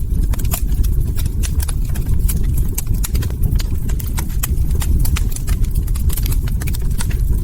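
Log fire crackling: many irregular sharp pops and snaps over a steady low rumble of burning wood.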